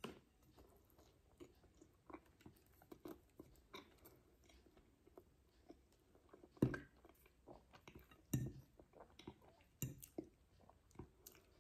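A person chewing a mouthful of spaghetti: quiet, wet mouth clicks and smacks, with two louder short knocks about two-thirds of the way through.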